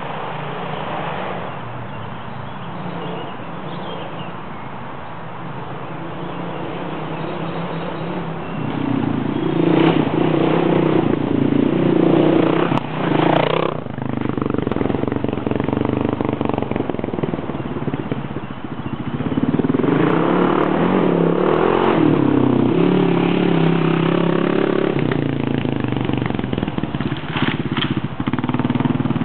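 Single-cylinder four-stroke dual-sport dirt bike engine revving and easing off as it rides around, rising and falling in pitch. It grows louder about a third of the way in, dips briefly, then comes back up for a second loud run.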